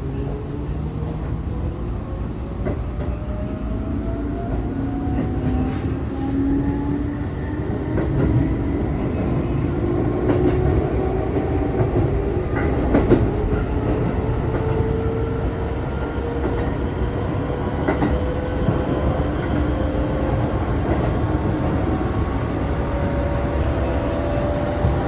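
Keihan 6000 series electric train heard from inside the car as it picks up speed: the traction motor and gear whine climbs slowly in pitch over a steady wheel-on-rail rumble, with a few clicks from rail joints.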